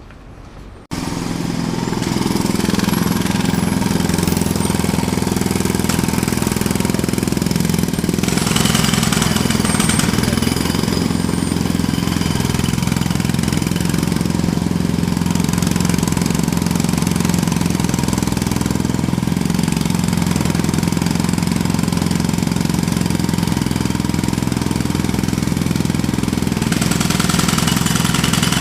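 Jackhammer starting abruptly about a second in, then hammering continuously at a rapid, steady rate.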